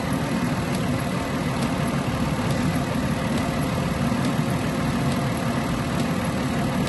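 A 2012 Ford Escape's 3.0-litre V6 idling steadily under electrical load from its lights, radio and wipers, charging at a steady 14.3 volts.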